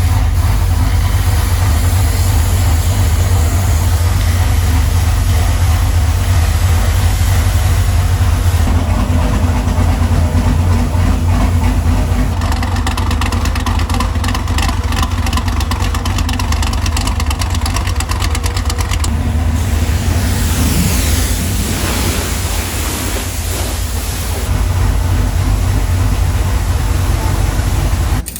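Car engine running loudly with a deep, constant low rumble, revving up and down with rising and falling pitch about two-thirds of the way through.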